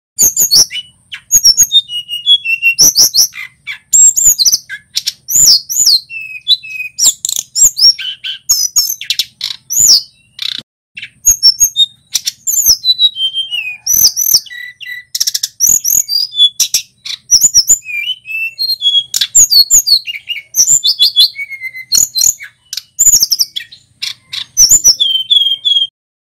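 Male tledekan gunung singing fast and continuously: a varied string of sweeping whistled notes mixed with sharp chips, stopping abruptly near the end.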